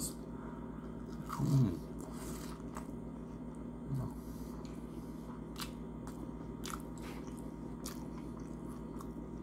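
Close-up chewing of a battered onion ring topped with ketchup, with sharp crunches scattered through and a short hum from the eater about a second and a half in.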